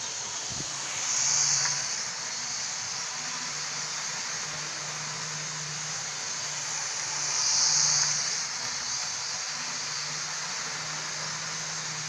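Model railway locomotive running on the track: a steady motor and wheel hiss with a low hum, swelling louder twice, about a second in and again near eight seconds, as it comes round close by.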